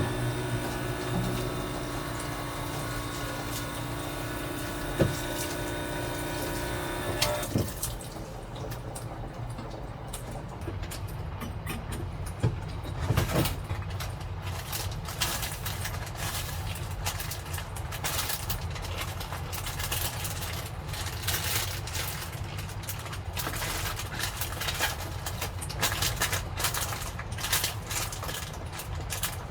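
Heavy typhoon rain beating on the shell of a small truck camper in irregular hits, over a steady low rumble of strong wind. A music track with held tones ends about seven seconds in.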